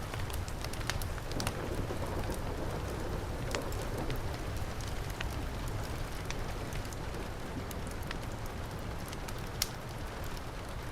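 Heavy rain falling steadily with a low rumble, mixed with a wood fire crackling in scattered sharp pops, one louder pop near the end.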